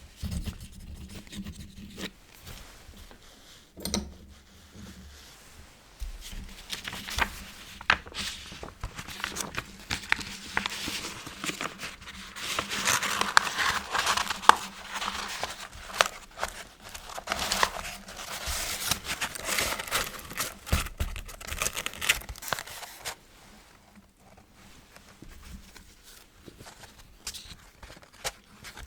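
Quill pen nib scratching across paper in short, irregular strokes. The scratching is busiest through the middle and thins out near the end.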